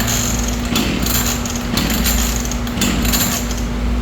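Gas chainsaw's recoil starter pulled about four times, roughly a second apart, each pull a short rasping whirr; the engine turns over but does not catch, the saw being hard to start.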